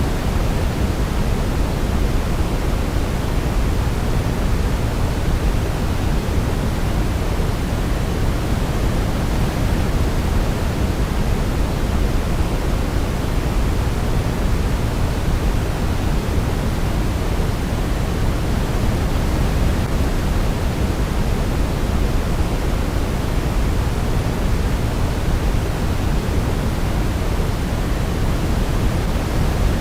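Continuous white-noise track for baby sleep, heavier in the low end than the highs like pink noise, holding at an even level with no change.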